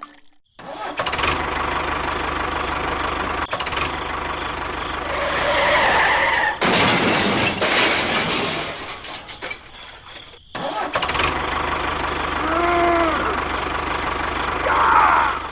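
Engine running with a steady low hum, in several segments that cut in and out abruptly, with short rising-and-falling tones laid over it near the middle and near the end.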